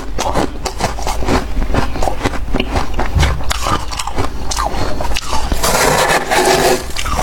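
Freezer frost being bitten and chewed close to the microphone: a continuous run of quick, crisp crunches and crackles, densest near the end.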